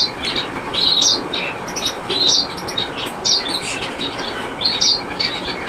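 Gouldian finch chicks chirping, short high calls about once a second, the begging of hungry chicks at feeding time. A steady noise runs underneath.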